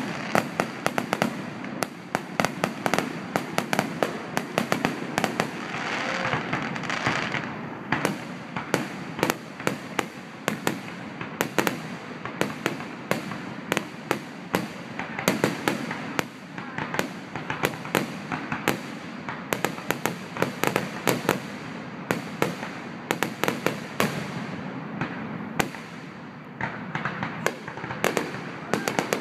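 Aerial fireworks display: shells bursting and crackling in a dense, continuous run of sharp bangs, several a second.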